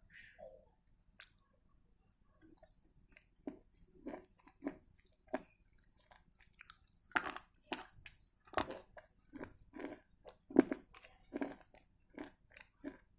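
Close-miked crunching and chewing of dry edible clay: sharp bites and crunches about twice a second, starting softly and growing louder in the middle.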